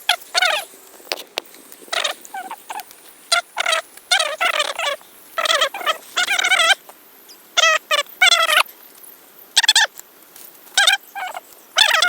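A bird calling over and over in short, warbling bursts, about one call a second.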